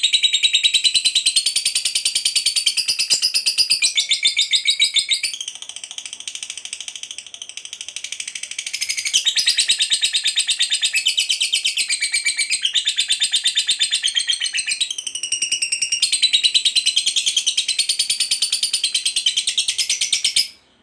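Lovebird's long 'ngekek' chatter: a fast, unbroken trill of shrill, rapidly repeated notes. It drops in level for a few seconds about a quarter of the way in, picks up again, and cuts off abruptly just before the end.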